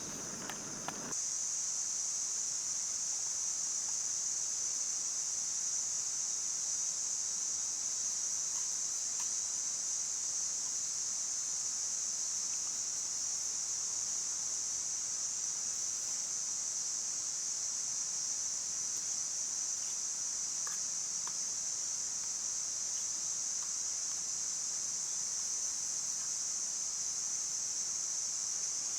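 Steady, high-pitched insect chorus, a constant shrill drone that sets in suddenly about a second in.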